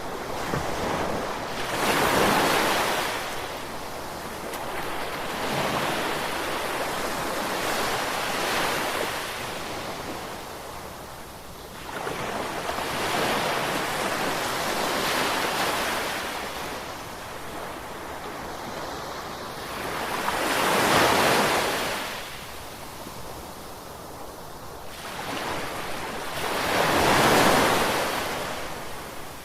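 Ocean waves breaking and washing in, a rushing surf noise that swells and fades every few seconds, with the two biggest waves near the end.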